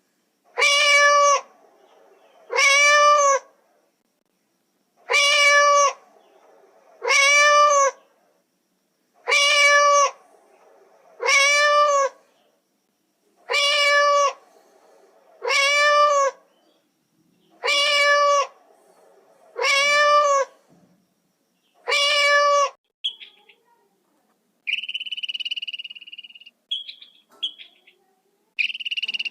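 An animal's meow-like call repeated eleven times, about two seconds apart, each call rising and then falling in pitch. Near the end, short high chirps take over.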